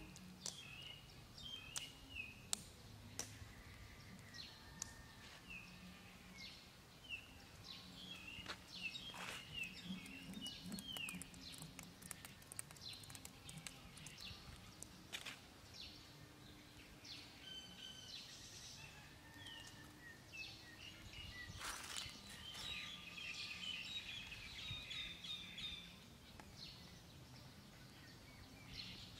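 Faint outdoor ambience of small birds chirping: many short, high chirps that repeat and grow busier in the last few seconds, over a low steady hum, with a few faint clicks.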